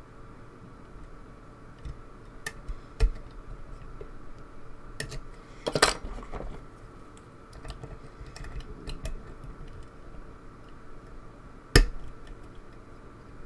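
Lock picks and a tension bar working in a pin tumbler lock: scattered small metallic clicks and scrapes, with a short clatter just before the middle and sharp clicks about three seconds in and near the end.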